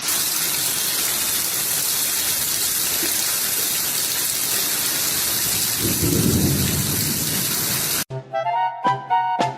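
Steady, even rushing noise like heavy rain or water pouring, for about eight seconds, cut off abruptly by a short stretch of music near the end.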